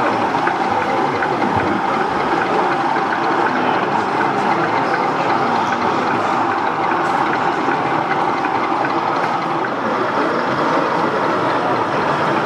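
Model trains running on an exhibition layout: a steady, even running noise.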